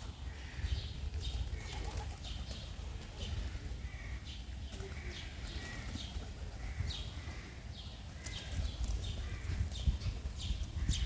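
Birds chirping in short, quick, falling notes, several a second, over a steady low rumble.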